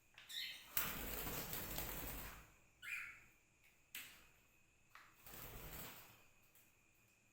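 A pet bird giving two short calls, one near the start and one about three seconds in, amid stretches of rustling.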